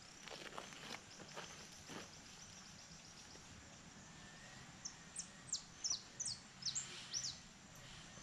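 A bird calling: a quick run of about eight short, high notes, each sliding downward, in the second half, over a faint rural background.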